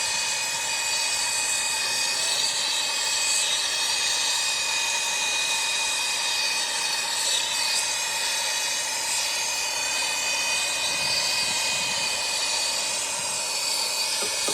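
Brazing torch flame hissing steadily while it heats a copper refrigerant line and the compressor stub to melt the brazed joint free.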